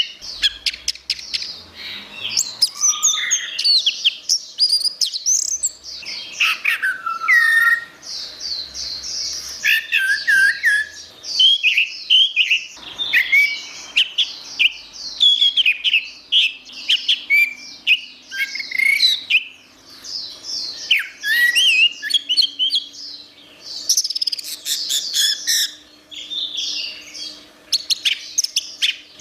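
Orange-headed thrush singing a continuous, rapid, varied song of whistled and chattering phrases with hardly a pause. A faint steady low hum sits underneath.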